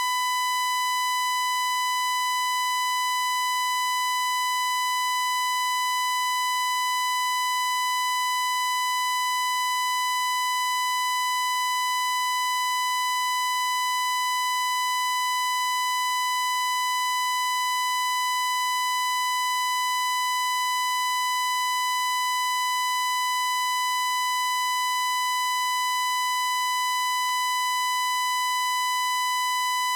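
A continuous high-pitched electronic tone, held at one unchanging pitch and loudness, with a thin buzzy edge from its overtones.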